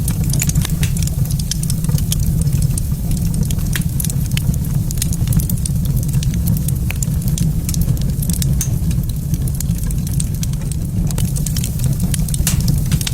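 Wood fire in a fireplace crackling, with frequent small irregular pops and snaps over a steady low rumble.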